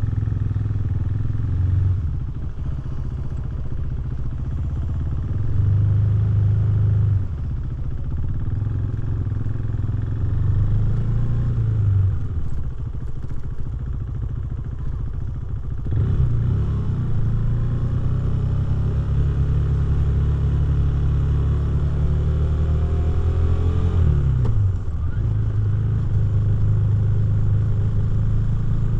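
KTM 390 Duke's single-cylinder engine through a Remus exhaust, ridden on the road: the throttle opens and closes and the pitch shifts with several gear changes, with a quick drop and rise in pitch late on.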